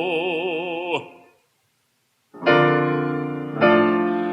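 A singer's held note with vibrato, accompanied by piano, ends about a second in. After a brief silence, the piano plays two sustained chords.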